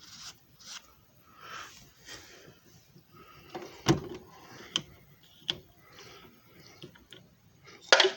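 Handling noises: soft rustling, then a few sharp clicks and knocks, the loudest about four seconds in and another just before the end.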